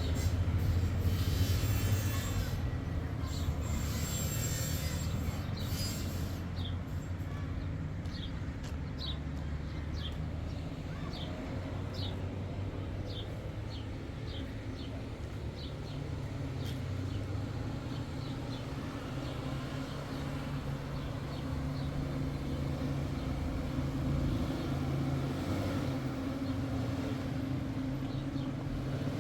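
Steady low hum of a vehicle on the move. Through the middle stretch a run of short, high, falling chirps comes about once a second.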